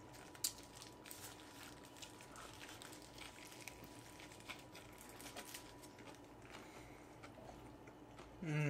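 Faint chewing and mouth noises of someone eating a sushi burrito, with scattered soft ticks and one sharp click about half a second in. A short hummed 'mm' comes near the end.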